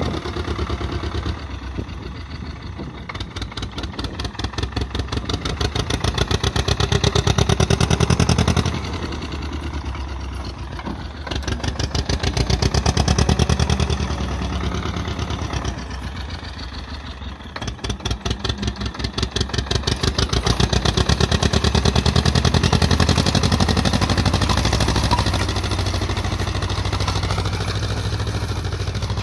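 Ursus C-330M Turbo tractor's two-cylinder diesel engine running under light load while sowing. Its note swells and eases several times. The turbocharger's wastegate flap is fixed fully open, so there is no boost, and the freshly rebuilt engine is still being run in.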